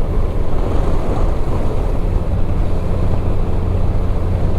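Motorcycle engine running steadily at low speed, with wind and wet road noise on the microphone.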